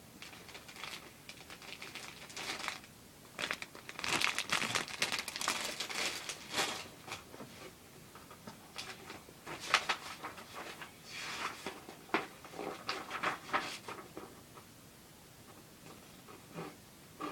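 Model kit packaging crinkling and rustling as it is handled, in irregular bursts that die away about three-quarters of the way through, followed by a single short knock near the end.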